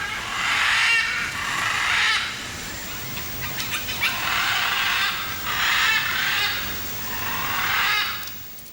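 Macaws giving several long, harsh screeching calls, each about a second, with short gaps between them.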